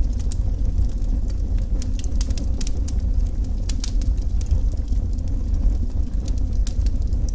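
Wood fire burning in a fireplace, with frequent sharp crackles and pops over a steady low rumble of the flames.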